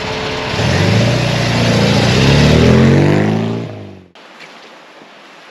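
A classic car's engine accelerating away, its note rising steadily over about three seconds. The sound cuts off abruptly about four seconds in, leaving quiet outdoor background.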